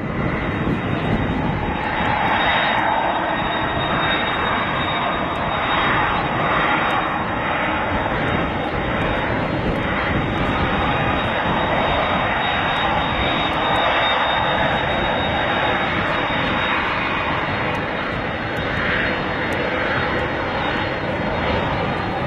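Aircraft engines running: a loud, steady rush of engine noise with a thin, steady high whine.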